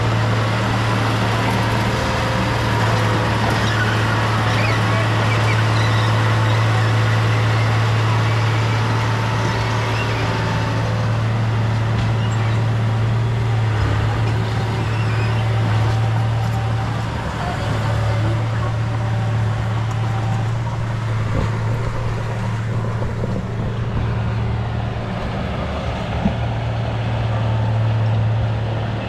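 Bulldozer's diesel engine running at working speed, a steady low drone over the rattle of the machine, easing briefly twice midway; one sharp click late on.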